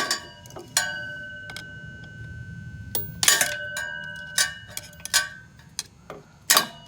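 Flat-head screwdriver clinking against metal while prying a tension spring out inside the exhaust pipe: several sharp strikes, each followed by a clear metallic ringing, one about a second in ringing on for about two seconds.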